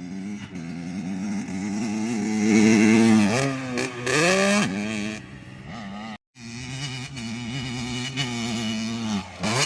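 Dirt bike engine accelerating hard, its pitch climbing and then dropping sharply at each gear shift. It cuts out briefly about six seconds in, then runs on at a steadier pitch.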